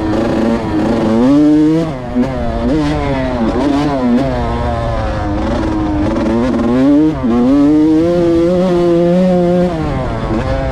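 Yamaha YZ125 two-stroke single-cylinder engine revving up and down over and over as the bike is ridden off-road, its pitch rising and falling with the throttle. It holds a steadier, higher rev for a couple of seconds near the end.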